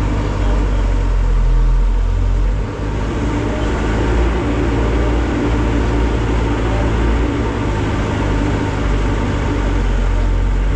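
Scrap metal baler running steadily under heavy load while compressing a bale, with a brief dip and change in its low tone about three seconds in.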